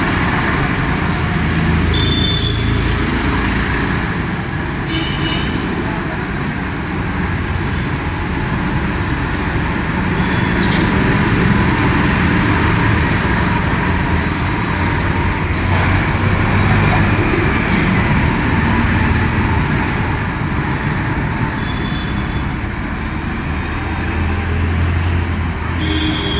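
Steady road-vehicle and traffic noise, a continuous rumble with a few short, high beeps scattered through it.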